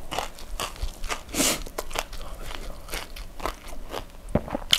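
Close-miked chewing of crispy ayam geprek (smashed fried chicken), with irregular crunches and a louder crunch about a second and a half in.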